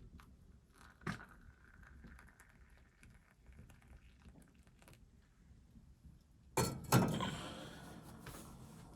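A sharp knock about a second in, light scattered clicks, then two loud thunks close together near the end followed by clattering and rustling.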